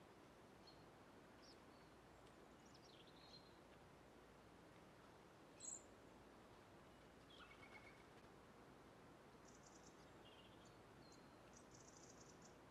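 Near silence with a faint steady hiss, broken by faint, short, high chirps of small birds that come and go. The sharpest chirp comes about six seconds in, and quick ticking twitters come near the end.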